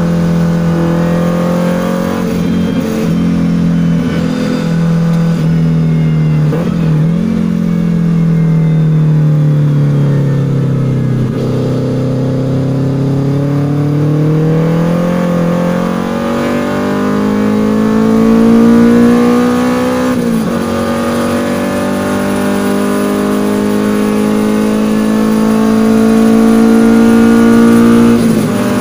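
Toyota Starlet KP61's swapped-in 4A-GE 20-valve inline-four, heard from inside the cabin under hard driving. The revs fall away to their lowest about halfway through, then climb steadily, broken twice by a sudden brief drop in pitch: upshifts, about two thirds of the way through and again near the end.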